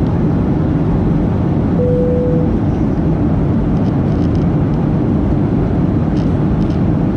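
Steady, loud cabin noise of a Boeing 737-800 with CFM56-7B engines, heard inside the cabin: engine and airflow noise, heaviest in the low range. A brief steady tone sounds about two seconds in.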